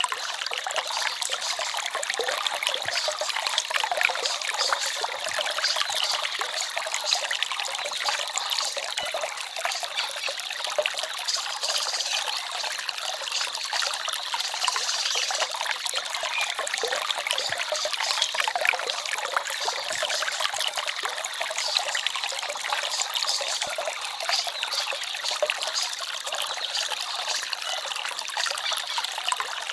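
A small forest stream trickling and babbling steadily: a dense, even patter of small splashes, light and without deep rumble.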